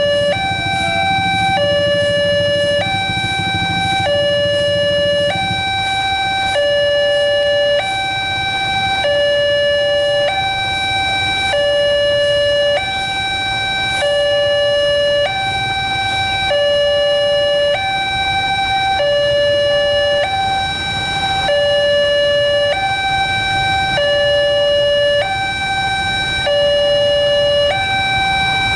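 Railway level-crossing warning alarm sounding a continuous two-tone hi–lo pattern, switching between a lower and a higher tone about every 1.25 s. A low rumble sits under it for the first five seconds or so.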